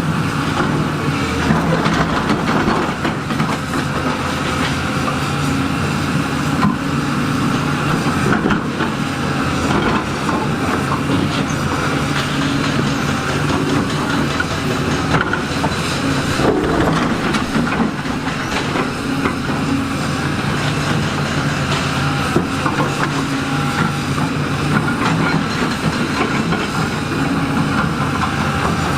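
Heavy diesel construction machinery running steadily under load, with scattered metallic knocks and clanks.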